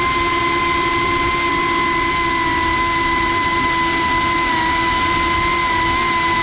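Cinewhoop Bumblebee FPV drone's motors and ducted propellers whining steadily in flight over a dense rushing hiss, heard from the camera mounted on the drone. The pitch holds almost level, wavering only slightly with small throttle changes.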